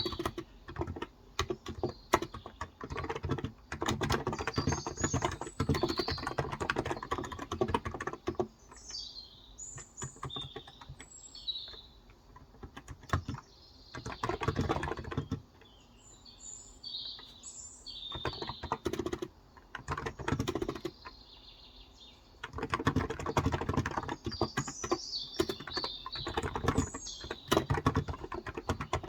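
Typing on a Cox Endeavour 35 g electrostatic capacitive (Topre-style) tenkeyless keyboard. It comes in three runs of rapid keystrokes with quieter pauses between them, while birds chirp throughout.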